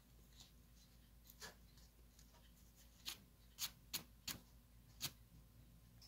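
Faint, sharp clicks of a diamond painting drill pen tapping resin drills onto the canvas: about six light taps, most of them bunched in the middle.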